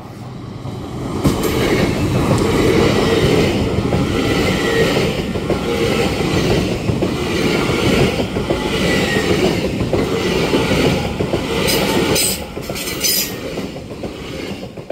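LNER Class 801 Azuma electric train passing at speed close by: a loud rush of wheel and air noise with a regular pulse as the coaches go by. It builds over the first second or so and has a few sharp crackles near the end, then drops away as the last coach clears.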